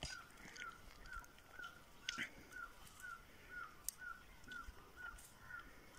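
A bird calling one short, slightly falling note over and over at an even pace, about twice a second, with a few faint knocks in between.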